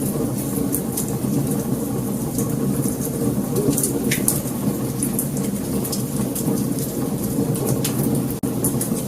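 Wood fire burning: a steady low rumble of flames with sharp, scattered crackles and pops from the burning wood. The sound drops out for a split second near the end.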